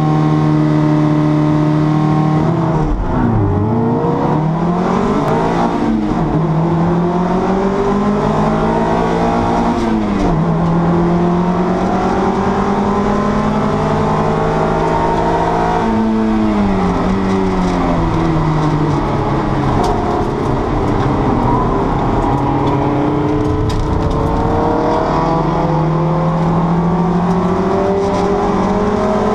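Racing car's engine heard from inside the cockpit, running hard under load: its pitch climbs, drops sharply several times as the driver changes gear or lifts for corners, then climbs again.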